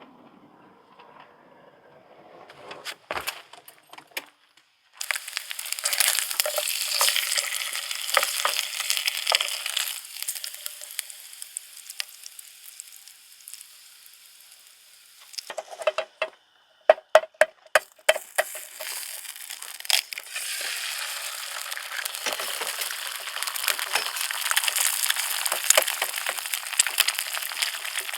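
Food sizzling and crackling in a frying pan. The sizzle starts about five seconds in, drops away for a few seconds, and after a cluster of sharp clicks around the middle comes back steadily.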